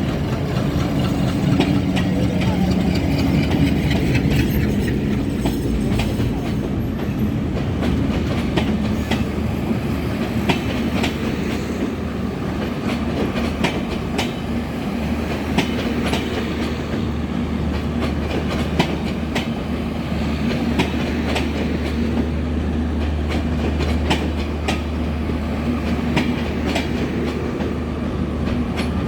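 Diesel train rolling along the track: irregular clacks of wheels over rail joints over a steady low engine drone.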